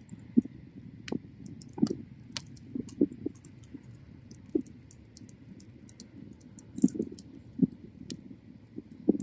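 Bonfire burning: wood crackling with irregular sharp pops over a low rumble of flame.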